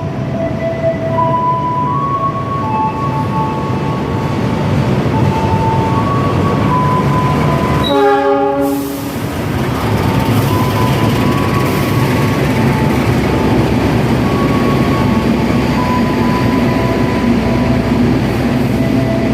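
Harina passenger train arriving: one short train horn blast about eight seconds in, followed by the low rumble of the train rolling into the station. A simple tune of held notes plays behind it throughout.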